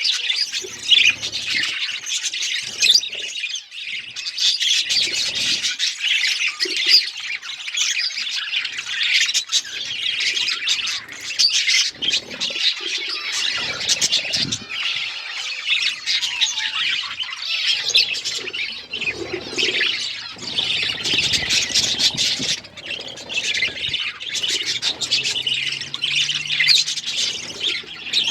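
Budgerigars chirping, warbling and squawking continuously, several birds overlapping in rapid high chatter.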